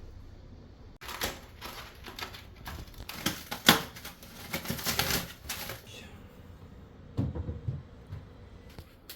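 A rapid run of clattering clicks and knocks from hard objects being handled, loudest about three and a half seconds in, then a few dull thumps near the end.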